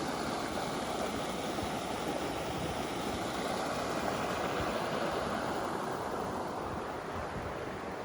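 Steady rushing of a forest stream's flowing water.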